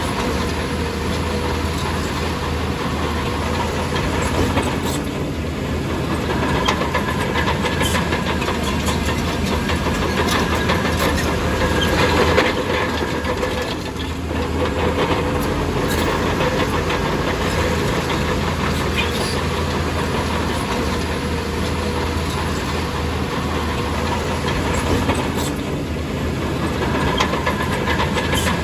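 Heavy earthmoving machinery at work, its diesel engine running steadily with scattered clanks and knocks throughout.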